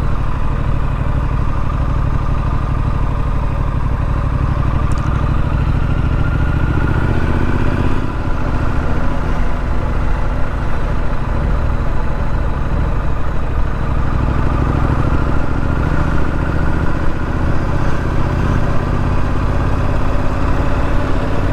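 Triumph Street Scrambler's 900 cc parallel-twin engine running on the move, mixed with wind and road noise. The engine note rises twice as the bike accelerates, with a brief dip in between.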